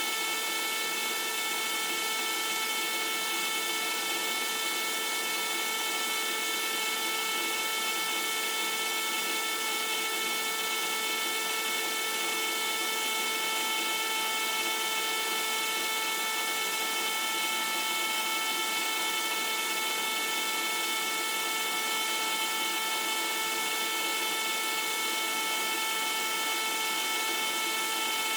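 Small electric pump motor running steadily, circulating vinegar through a tankless water heater to descale it. It hums and whines with several steady tones and does not change.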